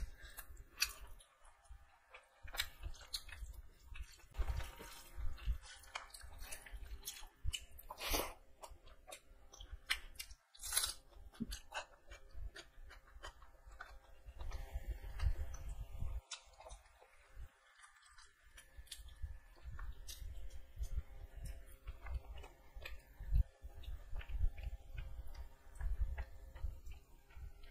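Close-miked chewing of rice, boiled egg and chicken curry eaten by hand, with irregular sharp clicks.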